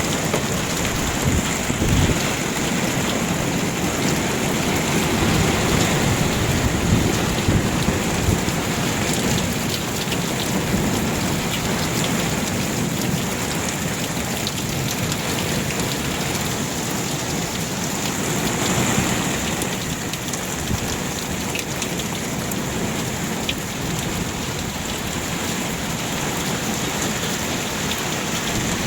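Heavy rain pouring down steadily in a night thunderstorm, with low thunder rumbling in the first part.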